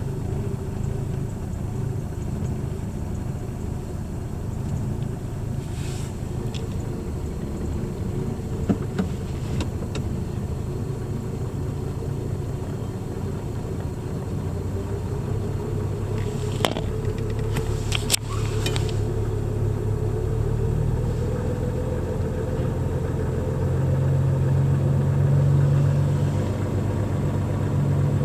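1961 Jaguar Mk 2's twin-cam straight-six running steadily at idle shortly after a cold start, its engine speed and level creeping up in the second half. A few sharp clicks sound about two-thirds of the way through.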